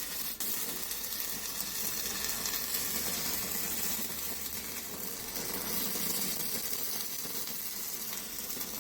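Stick-welding arc from a 6011 1/8-inch electrode, a steady crackling sizzle as the rod burns.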